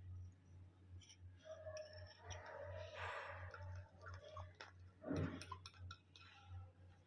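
Faint everyday handling sounds: scattered small clicks and taps with a few soft rustling stretches, over a steady low hum.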